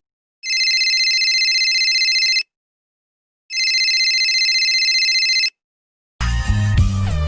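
Telephone ringing: two trilling rings of about two seconds each, a second apart. Music with guitar cuts in near the end.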